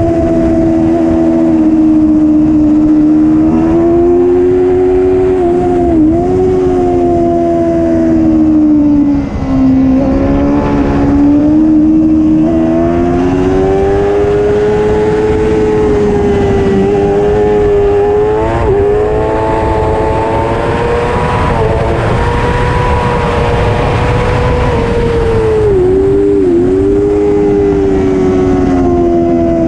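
Racing superbike engine at high revs throughout, its pitch climbing and falling as the bike accelerates and slows, with brief sharp dips at gear changes.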